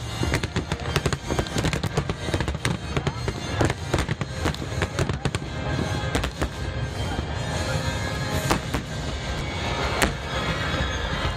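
Fireworks going off in quick succession: a dense run of crackling pops and sharp bangs over a steady low rumble, with a few louder reports, one of them about ten seconds in. Music plays underneath.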